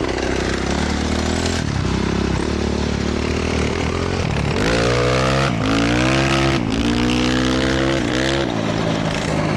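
Honda CRF450R dirt bike's single-cylinder four-stroke engine accelerating hard, its pitch climbing and then dropping at each gear shift, about four times in the second half. A steady rush of wind noise runs beneath it.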